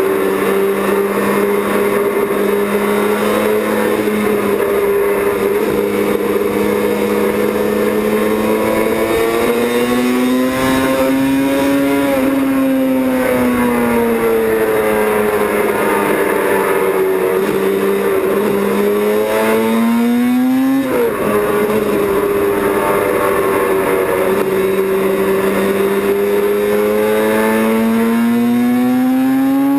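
Yamaha YZR750 OW31 racing motorcycle's two-stroke four-cylinder engine running under way, its pitch climbing and falling with the throttle several times, with a sharp drop about two-thirds of the way through and another at the very end.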